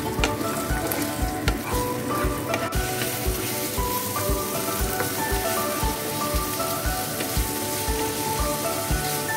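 Diced chicken and chopped onion sizzling in a frying pan as they are stirred with a wooden spatula. Background music with a steady beat plays throughout.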